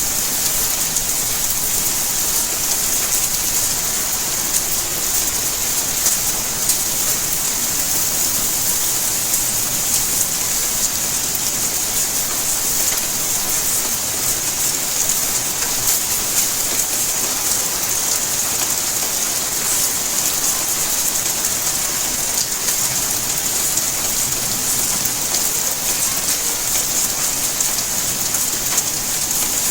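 Steady rain falling: a dense, even hiss with a fine patter of many small drop ticks, unchanging throughout.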